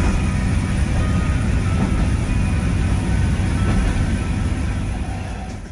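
Matsuura Railway diesel railcar running on the line, a steady low rumble that fades out near the end.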